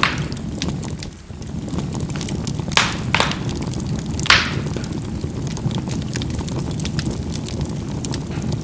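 Charcoal burning in a fireplace: a steady low rumble of the fire with small crackles throughout and a few sharp, loud pops in the middle as the charcoal bursts.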